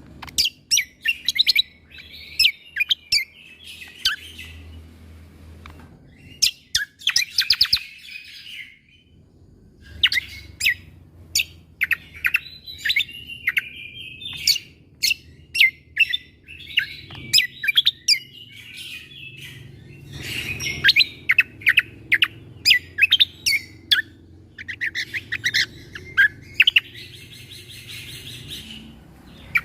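Cucak kombo (kecial kombo) singing: clusters of sharp, rapid 'shot' notes (tembakan) mixed with high chattering twitters, in bursts with short pauses between them.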